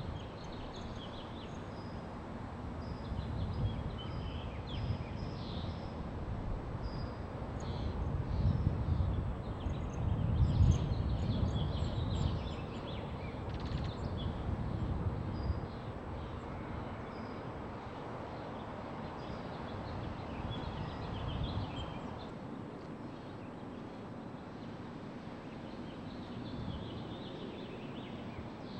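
Many small birds chirping in quick, scattered calls over a low rumbling background noise that swells and fades, loudest near the middle. It is a field recording played back and re-recorded in a room.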